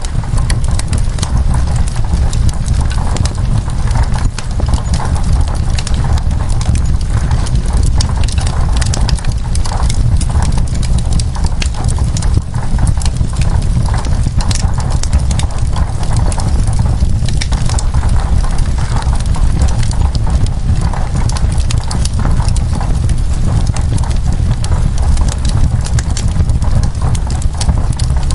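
Log fire crackling, with many sharp irregular pops and snaps over a steady low rumble and hiss.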